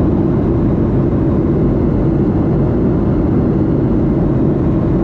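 Steady loud cabin noise of a Boeing 737-8 heard from a seat near the engine: its CFM LEAP-1B turbofans and the rush of air, a deep even drone with no change in pitch or level.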